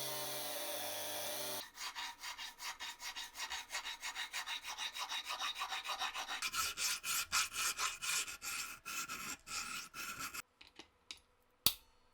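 A power tool's whine stops about a second and a half in. Then quick, even back-and-forth strokes, about five a second, as a rusty revolver part is rubbed down by hand with an abrasive. The strokes stop near the end, followed by one sharp click.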